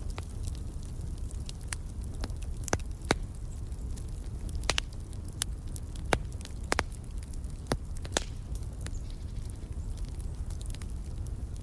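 Wood fire crackling in a fireplace: irregular sharp pops and snaps, about a dozen, over a steady low rumble of the flames.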